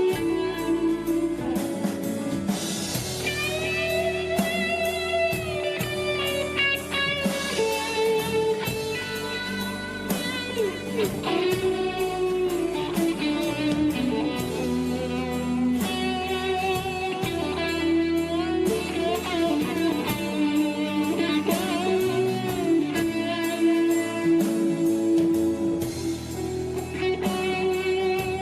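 Rock band playing live, instrumental: a held electric guitar lead with wavering, bending notes over drums and bass.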